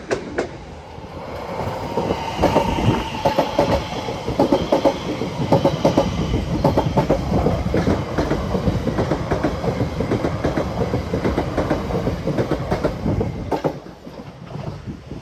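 Brand-new South Western Railway Class 701 Aventra electric multiple unit passing close by over a level crossing, its wheels clattering in quick rhythmic groups over the rail joints. The sound drops away near the end.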